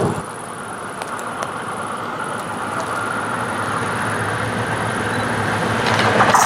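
Class 654 Regio-Shuttle diesel railcar approaching, its running noise growing steadily louder, with wheel clicking over the rails starting near the end.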